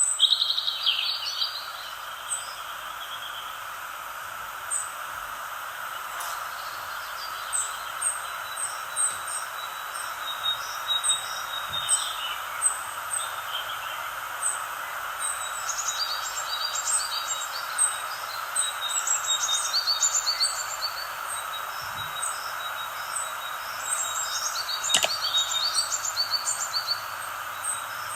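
Birds chirping and singing, many short high calls and quick trills coming and going, over a steady background hiss.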